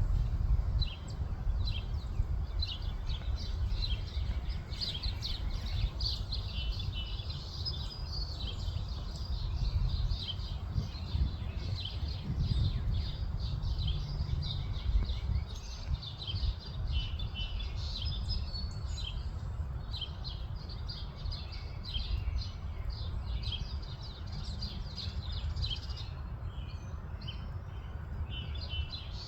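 Songbirds, an eastern towhee among them, chirping and singing in a dense run of short notes, over a steady low rumble.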